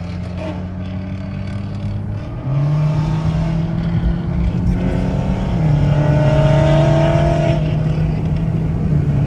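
Car engine droning steadily, heard from inside the cabin while cruising. It gets louder about two and a half seconds in, and its pitch steps down slightly near six seconds.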